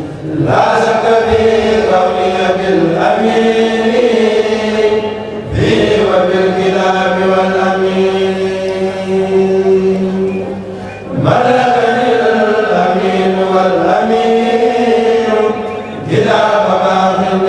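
A kourel group of voices chanting a Sufi religious poem together, holding long drawn-out notes in phrases of about five seconds, with a brief break for breath between phrases.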